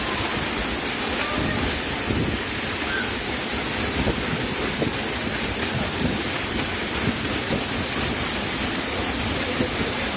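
A waterfall's water rushing steadily, a constant roar of falling water.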